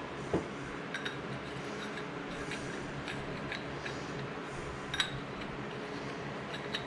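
Small metal pipe fittings being handled and fitted together, giving a few light clicks and clinks, the sharpest about five seconds in, over a steady low hum.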